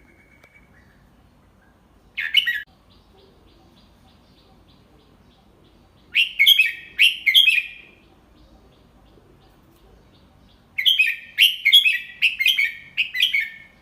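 Red-whiskered bulbul singing: a short note about two seconds in, a three-note phrase around six seconds, and a longer run of quick chirping notes near the end.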